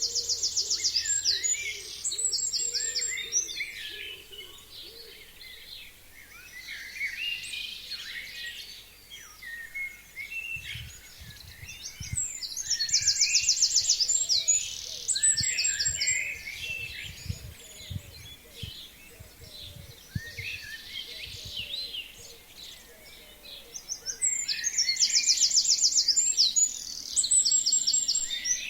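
Forest birds singing. One songbird repeats a loud, rapid, trilled song phrase three times, about twelve seconds apart, over the quieter chirping of other birds.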